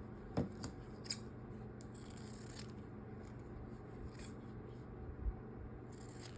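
Scissors snipping a few times, short sharp cuts spread out with pauses between, and a brief scraping rustle about two seconds in.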